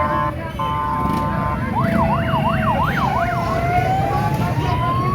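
A vehicle's electronic horn blares, breaks briefly, and blares again. Then a siren runs through a few fast up-and-down yelps and settles into a slow rising wail, over a steady low rumble of engines and crowd.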